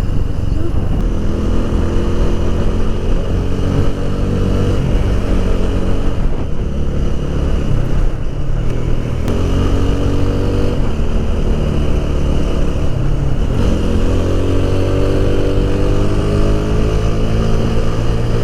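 Motorcycle engine running as it is ridden. The engine note dips briefly a few times, then climbs steadily as it accelerates about fourteen seconds in.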